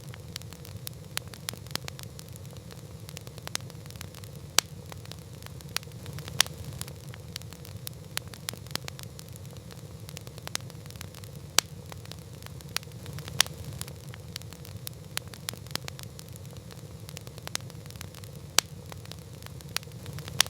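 Wood campfire crackling: irregular sharp snaps and pops, several a second, with a few louder pops, over a steady low noise from the fire.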